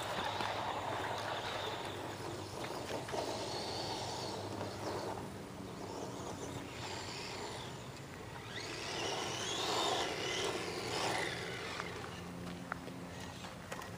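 Electric motor of a Madgear Desert Wolf 1/10 short course RC truck whining as it speeds up and slows down several times, over a steady rushing noise.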